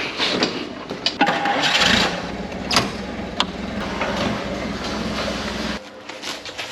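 A motor starts about two seconds in, runs steadily for about four seconds with a few sharp knocks over it, then cuts off suddenly.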